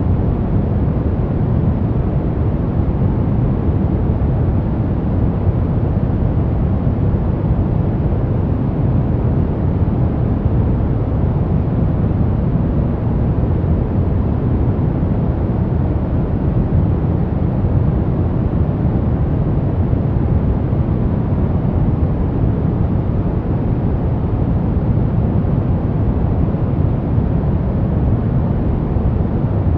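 Steady white noise from a sleep and relaxation noise track: an even, unbroken rushing sound with no change, heavier and deeper than a bright hiss.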